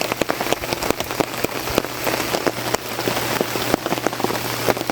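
Steady rain falling, with many individual drops striking a hard surface close by, over a faint low steady hum.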